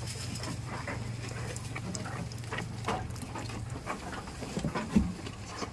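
Animal calls with scattered short clicks, over a steady low hum that stops near four seconds in; a sharp thump about five seconds in is the loudest sound.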